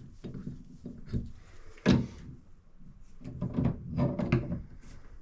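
Hand tools and metal shower-valve parts knocking and clicking as the cartridge is fitted, with one sharp knock about two seconds in and a run of knocks and scrapes near the end.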